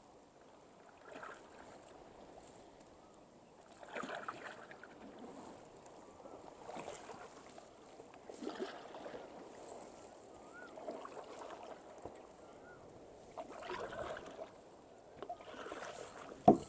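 Kayak paddles dipping and pulling through the water, splashing and dripping every couple of seconds, with a sharp knock near the end.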